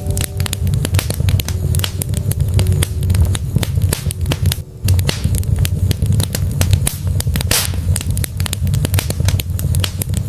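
Wood fire in a fireplace crackling, with rapid sharp pops and snaps from the burning logs over a steady low rumble of the flames. The sound drops briefly about halfway before the crackling picks up again.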